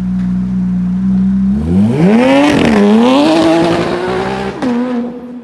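Porsche 911 GT3 RS (991.1) 4.0-litre naturally aspirated flat-six through an Innotech exhaust, holding a steady note, then revving hard from about a second and a half in. The pitch dips briefly, climbs again, and drops off sharply near the end.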